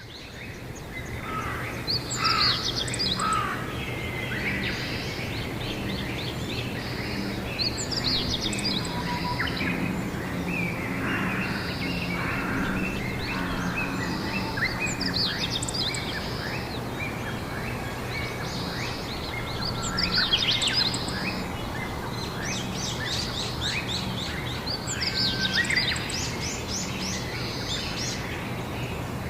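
Songbirds singing outdoors, with a phrase of quick trilled notes every five or six seconds, over a steady low hum.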